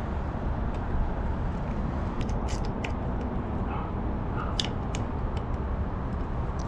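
Scattered light clicks and taps of small parts and tools being handled while master cylinders are fitted to a pit bike's handlebars, over a steady low background rumble.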